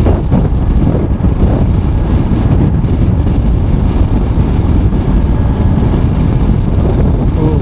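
Loud wind noise buffeting the microphone of a motorcycle riding at speed through strong, gusty wind, an even rush heaviest in the low end.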